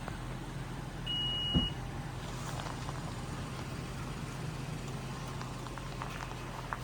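Steady engine and road hum inside a moving car, with one short high beep about a second in.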